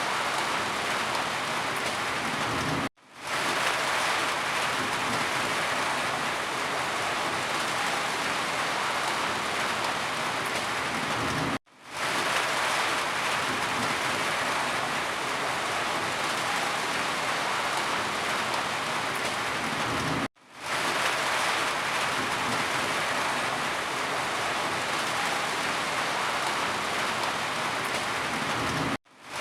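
Steady heavy rainfall, an even hiss. It cuts out abruptly about every eight and a half seconds (three seconds in, near twelve, near twenty, and at the very end), fading back in within half a second each time.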